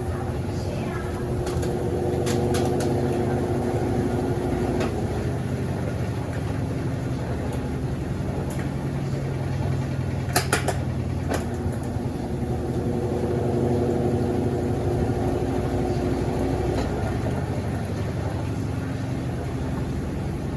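Consul CWS12 12 kg washing machine draining after the first rinse: a steady pump hum, with a motor tone rising in twice for a few seconds. A few sharp clicks about ten seconds in.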